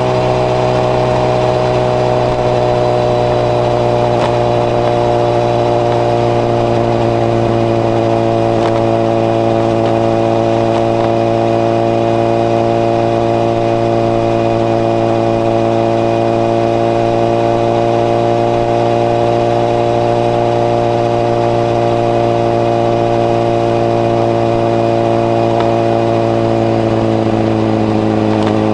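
Honda CBR1000RR's inline-four engine running through a modified Moriwaki exhaust with its baffle fitted, holding a steady note as the bike cruises. Its pitch eases down slightly a few seconds in and again near the end.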